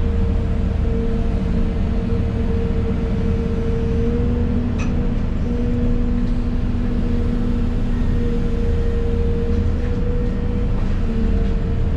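Excavator diesel engine and hydraulics running steadily at working speed, heard from inside the cab: a deep rumble under a steady pitched whine. A faint click about five seconds in.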